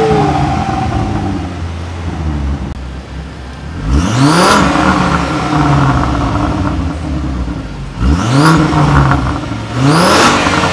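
Volvo C30 engine revved three times through a newly fitted Dynomax muffler and exhaust tips. Each rev is a quick rise and fall in pitch, starting about four, eight and ten seconds in, and the engine drops back to idle in between.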